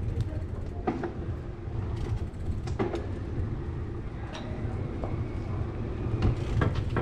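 Bicycle ride noise: a steady low rumble of wind and rolling tyres, with scattered clicks and light rattling knocks from the bike going over the pavement.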